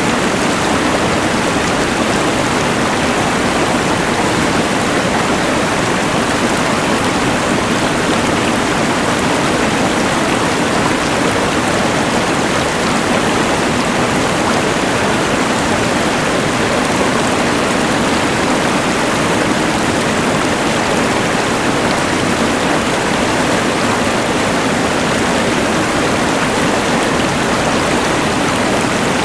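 Rushing mountain river mixed with the hiss of a LectroFan white noise machine: a loud, even, unchanging wash of noise.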